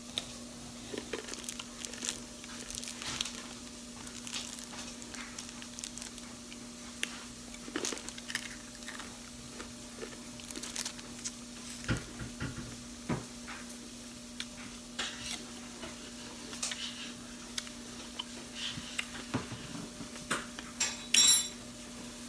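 Close chewing and crunching of candy apple pieces with a hard sugar coating: many short crackles, clicks and mouth smacks, with a steady low hum behind. Near the end a brief, louder, sharp squeak stands out above the rest.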